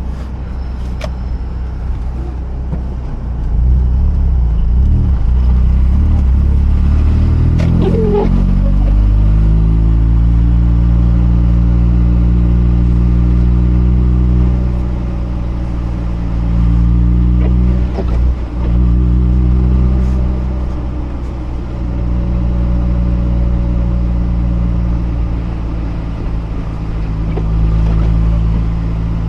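Mazda RX-8's twin-rotor rotary engine pulling the car along, its note rising in pitch as it accelerates about a third of the way in, then holding steady while cruising, over a low road rumble.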